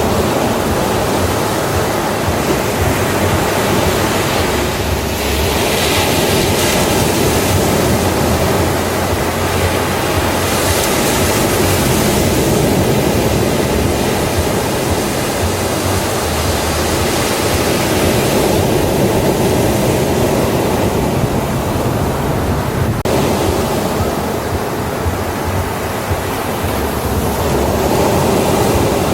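Ocean waves breaking and washing on a beach: a steady roar of surf that swells and eases every few seconds.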